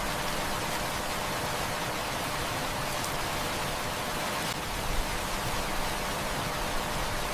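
Heavy rain falling steadily in a dense, even hiss, with a few faint sharp clicks; the sharpest comes about five seconds in.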